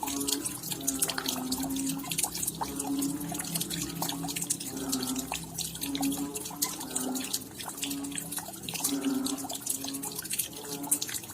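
Raindrops dripping and pattering: a dense run of separate sharp drops, with short low pitched plinks recurring about once a second.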